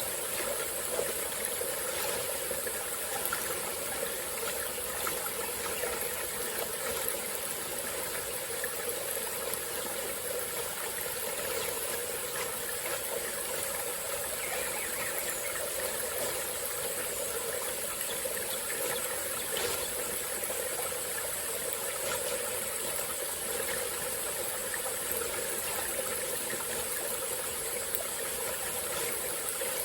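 Small tropical forest stream flowing steadily, an even rushing and trickling of water, with a constant high hiss above it.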